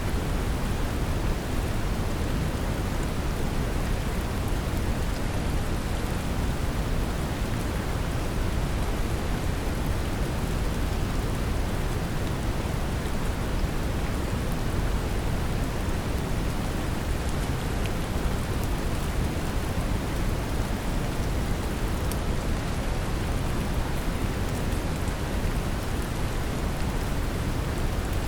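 Steady brown noise, a deep rumbling hiss weighted toward the bass, mixed with a continuous patter of gentle rain.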